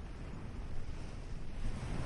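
Ocean surf washing onto a beach, with wind buffeting the microphone. The wash swells near the end.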